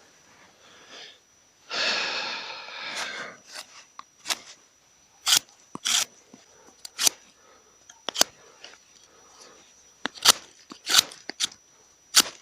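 Dry, bark-stripped sticks snapping as they are broken by hand: a string of sharp cracks about a second apart, after a brief scraping rustle about two seconds in.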